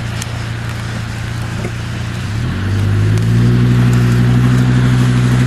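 Car engine running with road noise, heard from inside the car; a little over halfway through the engine note rises and grows louder as it pulls harder.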